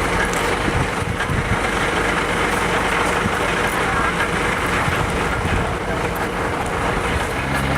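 A heavy vehicle's engine running steadily at idle, with voices in the background.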